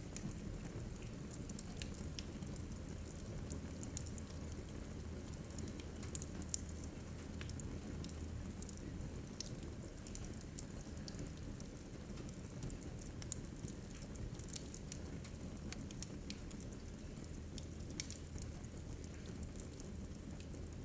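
Wood fire crackling in a fireplace: irregular small pops and snaps over a low, steady rumble of burning.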